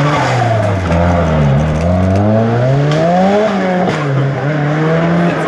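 Rally car engine revving hard as it drives a stage: the pitch drops, climbs for about two seconds, falls sharply about three and a half seconds in, then holds steady.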